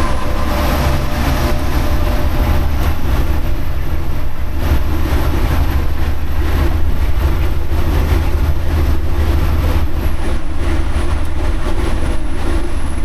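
Semi truck's diesel engine running with a steady, loud low rumble, and a faint high whine that steps up about half a second in and drops back about ten seconds in.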